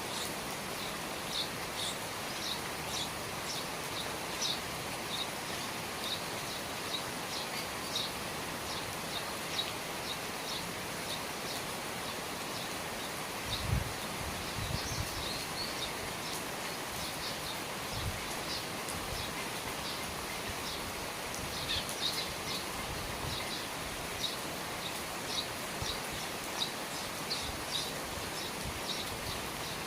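Steady rain falling, heard from under the eaves, with a small bird chirping over and over in short high notes about twice a second. A few dull low thumps come in the middle.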